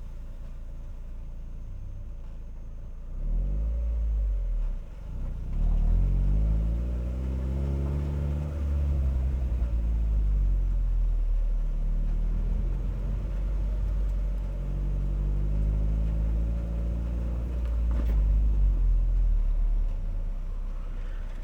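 Car exhaust picked up close at the rear bumper while driving: a low idle-like rumble, then about three seconds in the engine pulls away louder, its note rising and falling with engine speed, with a brief drop about five seconds in, easing off near the end.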